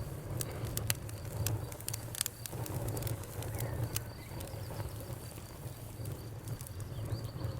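Wood fire in a fireplace crackling, with frequent sharp pops and snaps over a steady low rumble of flames. A faint steady high-pitched tone runs underneath.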